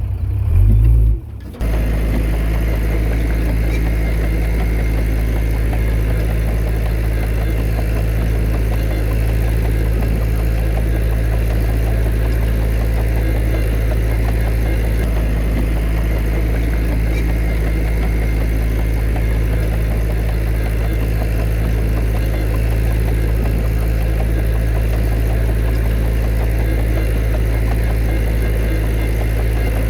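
Heavy earthmoving machine's diesel engine running steadily at a constant speed, a low even drone. A short louder stretch and a brief dip come in the first couple of seconds before it settles.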